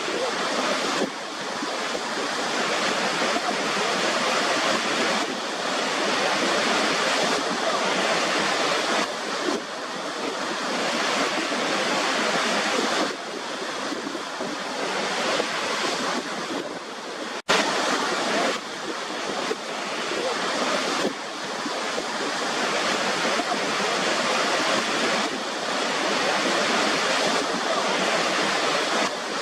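Waterfall rushing in a steady, even roar of water noise with no music in it. The sound drops out for a split second a little past halfway.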